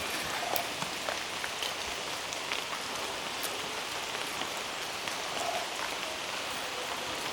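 Steady rain falling on rainforest foliage, with many small drops ticking close by.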